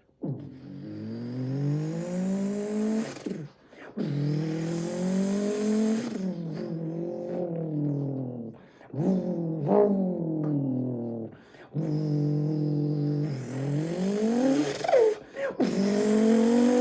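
A man's voice imitating the Nissan Skyline GT-R R32's engine with his mouth, revving up through the gears. There are about six rising sweeps in pitch, each cut off and dropping back lower like an upshift.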